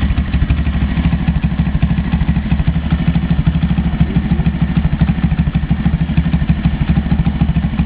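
125cc Lifan pit-bike engine, a single-cylinder four-stroke, running steadily at idle with a fast, even pulse.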